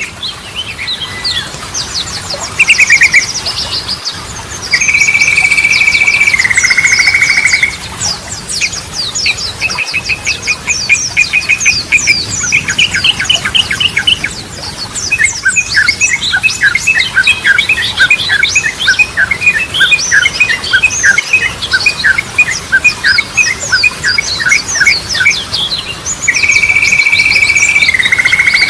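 Yellow-vented bulbul (trucukan) singing without pause, a mix of fast high twittering and rapid rattling trills. A long, loud, held buzzy phrase that drops in pitch halfway comes twice, once about five seconds in and again near the end.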